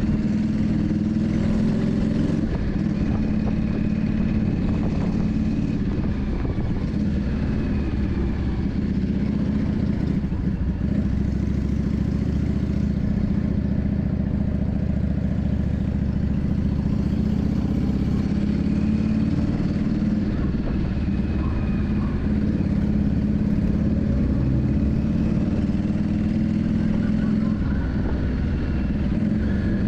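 Yamaha Drag Star 400's air-cooled V-twin engine running steadily, its pitch shifting slightly up and down.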